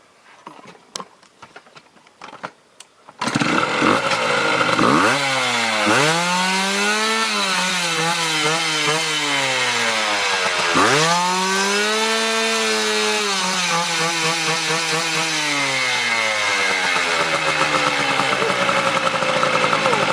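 A trail motorcycle engine starts up loudly about three seconds in and is revved hard, its pitch climbing and falling in long sweeps, with deep dips and climbs twice. Before it, only faint scattered clicks.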